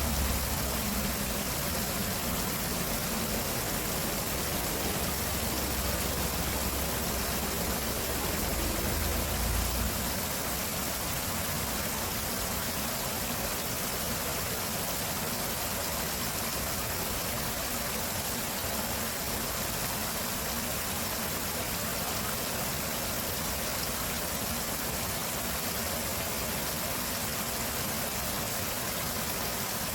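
Flowing stream water, a steady rushing. A low rumble sits under it for the first third and fades out about ten seconds in.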